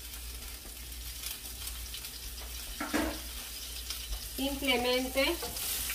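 Thin asparagus spears sizzling in a hot frying pan, frying in the fat left over from pan-fried salmon.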